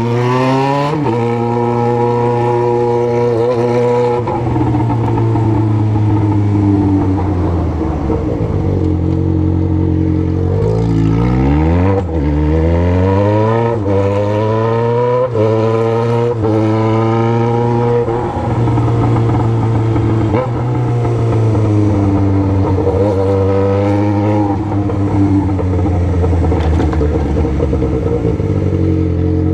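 Yamaha XJ6's inline-four engine through a 4-into-1 exhaust with only the pipe, on the move: it revs up through the gears, its pitch rising and dropping at each shift. About ten seconds in it falls to low revs and then pulls up again, before running more steadily near the end.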